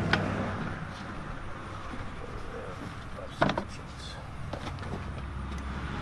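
Tools clinking and clicking as a socket set is handled and a socket is picked out, with a sharp metallic clatter about three and a half seconds in.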